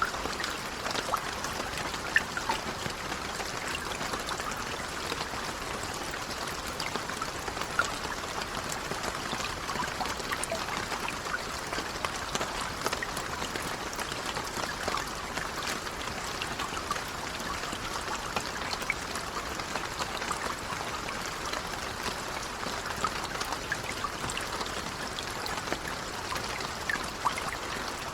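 Steady, gentle rain, with many small drops pattering and an occasional louder drip standing out.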